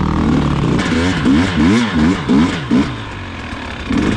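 Two-stroke dirt bike engine running, then revved in a quick series of about five short throttle blips, each rising and falling in pitch, before it drops back to a lower, steady run.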